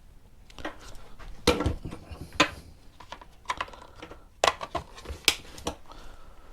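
Irregular clinks and knocks of metal hand tools and engine parts being handled on a workbench, a few of them sharp and lightly ringing.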